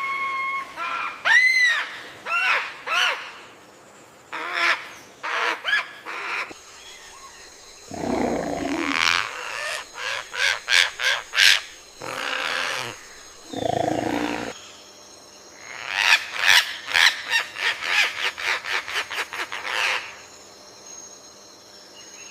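Bird calls: a series of arched whistled notes, then two lower, harsher calls about 8 and 14 seconds in, and a quick run of short repeated notes near the end.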